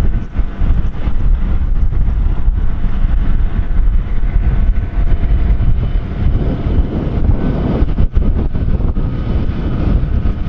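Wind buffeting the microphone as a loud, uneven low rumble, with faint steady tones underneath.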